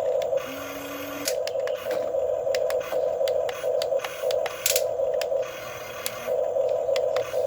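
Electric motors of a Huina 1550 RC excavator whining in short stop-start spurts as the arm and bucket are worked, with small clicks and ticks between them.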